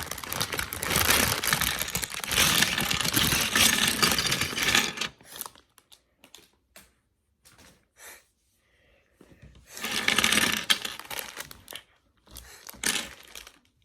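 Lego parts bags and pieces being handled: a long spell of plastic rustling and small pieces clattering, a few light clicks, then another shorter spell of rustling and clattering.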